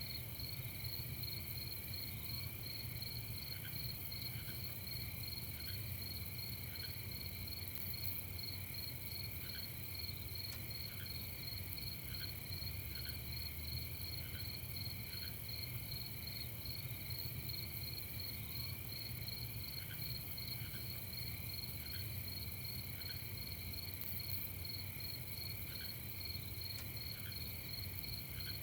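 Night chorus of crickets trilling steadily, several fast-pulsing high trills layered together. Fainter, lower short chirps recur irregularly about once a second over a steady low hum.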